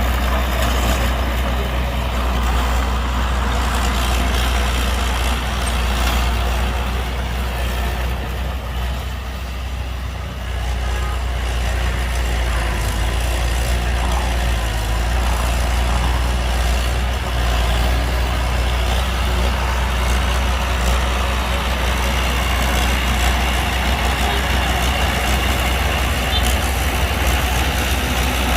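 Heavy diesel engines of dump trucks and a bulldozer running steadily, with a deep continuous rumble.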